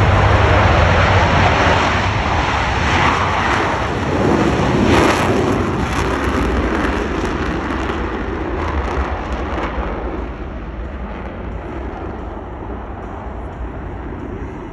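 Jet noise from the four Blue Angels F/A-18 Super Hornets of the diamond taking off in afterburner: a loud, rumbling roar that swells about four to five seconds in and then fades steadily as the jets climb away.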